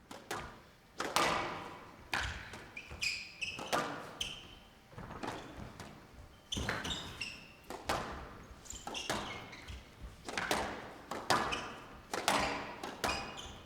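A squash rally: the ball is struck by rackets and smacks off the court walls about once a second, each hit echoing in the hall, with short squeaks of shoes on the court floor between the hits.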